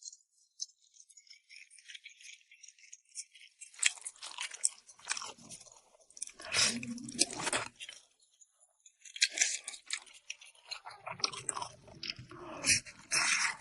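A person chewing rice noodles dressed in red chili oil, in several bursts of mouth sounds with short pauses between.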